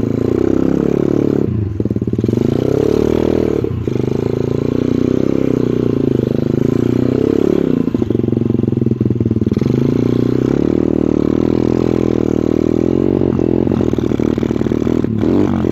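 125cc pit bike's single-cylinder engine revving under way, its note rising and falling repeatedly as the throttle opens and closes, with brief drops about 2 and 4 seconds in and a longer lull around 8 to 9 seconds in.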